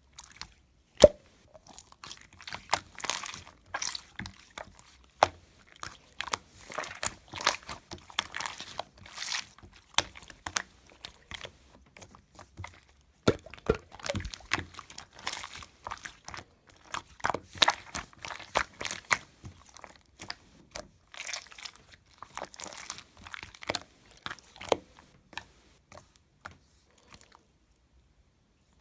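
Slime being squeezed, poked and folded by hand, making irregular crisp crackling, clicking and crunching sounds, with a sharp click about a second in and a short lull near the middle.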